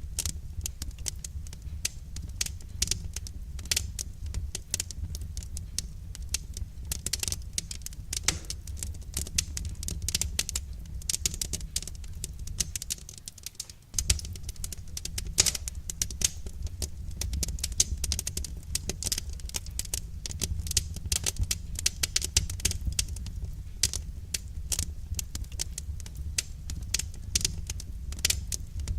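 Wood fire crackling in a fireplace: dense, irregular pops and snaps of burning firewood over a steady low rumble, which drops away briefly about halfway through.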